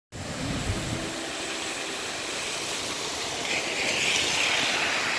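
Steady rush of typhoon wind and rain, with gusts buffeting the microphone as low rumbles in the first second. A brighter hiss swells about three and a half seconds in.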